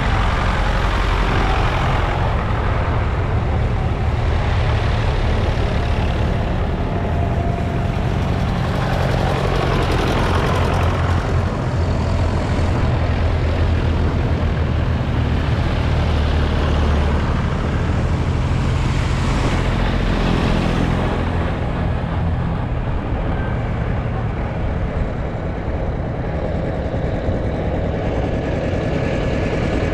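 Vintage diesel tractors on the road, their engines running in a steady procession, with the noise swelling and fading several times as tractors pass one after another.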